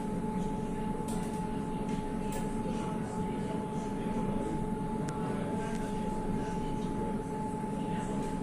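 Electric river tram under way: a steady low running hum with a constant thin whine above it.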